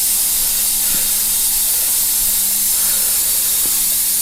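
Steady high-pitched background hiss with a faint low hum under it, and a couple of faint light taps.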